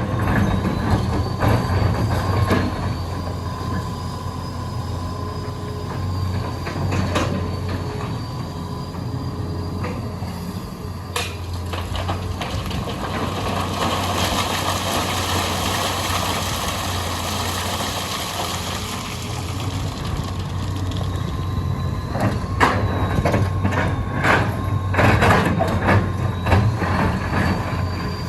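Hitachi EX200 hydraulic excavator's diesel engine running steadily under load, with a thin high hydraulic whine and sharp metallic clanks of the bucket and boom. A rushing hiss swells for several seconds in the middle, and the clanks come thick again near the end.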